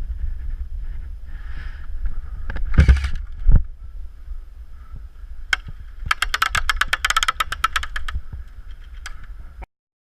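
An airsoft gun fires a rapid full-auto burst lasting about two seconds, a fast, even string of sharp cracks, with single shots just before and after. Underneath runs a steady low rumble of wind on the microphone, broken earlier by two heavy thumps, and the sound cuts off abruptly near the end.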